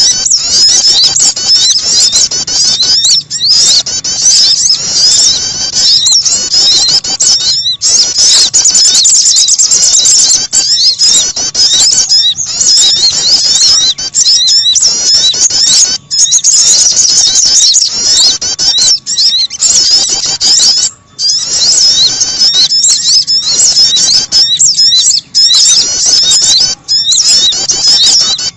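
Bird-trapping lure recording of sogon and prenjak (prinia) calls: a dense, nearly unbroken stream of rapid high-pitched chirps and trills, with a few brief pauses.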